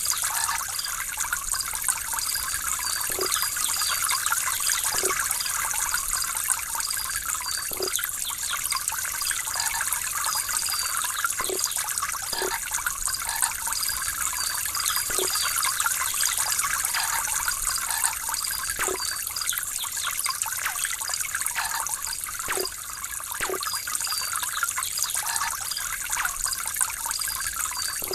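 Water trickling steadily, with single drops plinking every second or two.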